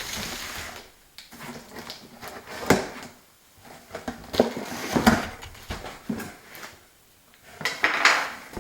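A cardboard box and its packaging being opened and handled: a few sharp knocks and thuds with rustling, scraping bursts of cardboard in between.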